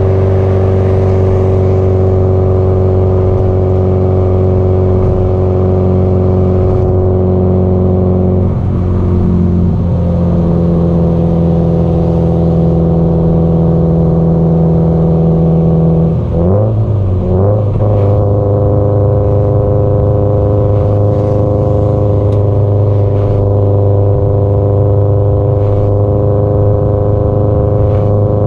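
Subaru Impreza GDB-E's turbocharged flat-four running through its aftermarket muffler at steady cruising revs. The engine note holds a level pitch, and twice, about 9 and 17 seconds in, it wavers and settles at a new pitch as the revs change.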